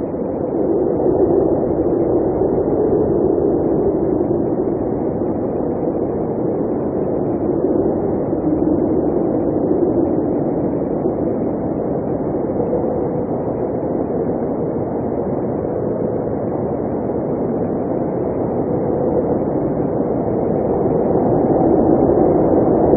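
Blizzard wind blowing steadily, a low rushing noise that slowly swells and eases over several seconds.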